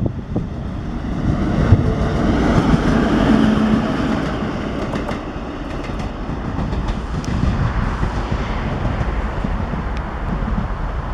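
Train rolling past close by: a steady rumble of wheels on rail, with sharp clicks and clatter over the joints. The sound swells about two to four seconds in.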